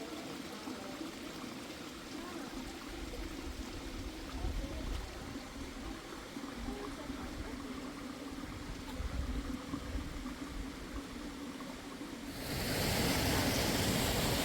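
Mountain river water running steadily. About twelve seconds in, a louder, hissing rush of water takes over.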